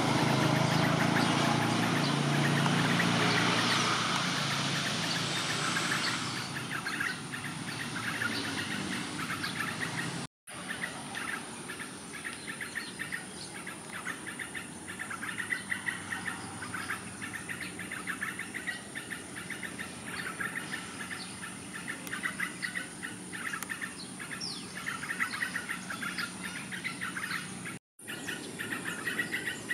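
Birds chirping, a quick run of many short calls. In the first six seconds the birds sit over a louder low rumble. The sound drops out briefly twice, about ten seconds in and near the end.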